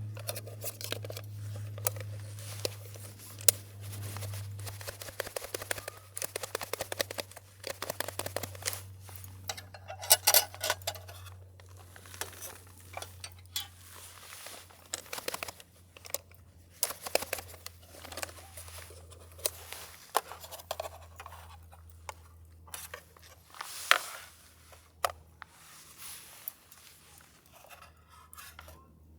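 Irregular clicks, scrapes and crinkling of small objects being handled, over a steady low hum.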